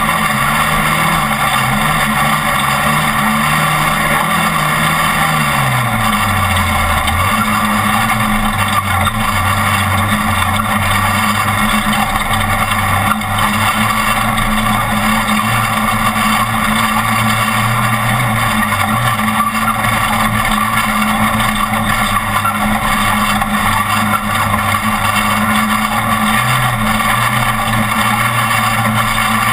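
Off-road race truck engine running under load over loud, continuous road noise. Its pitch falls about five to seven seconds in, then holds fairly steady.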